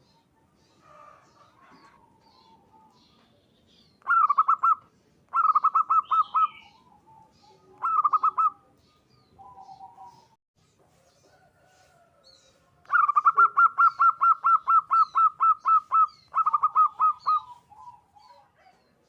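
Zebra dove (perkutut) calling: five bursts of rapid, evenly repeated cooing notes, the longest lasting about three seconds in the second half, with softer single coos between the bursts.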